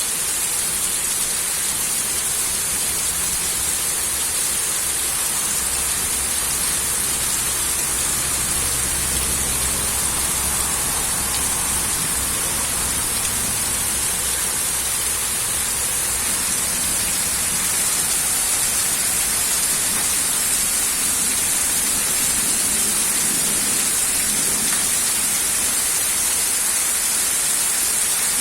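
Steady heavy rain pouring down, a continuous even hiss.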